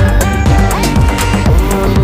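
Minimal techno track with a steady, fast kick drum, ticking hi-hats, and synth notes that glide up in pitch and then hold.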